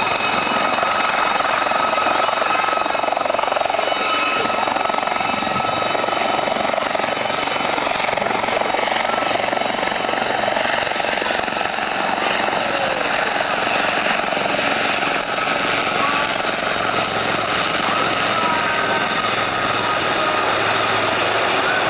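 Steady drone of aircraft engines with a thin, steady high whine above it.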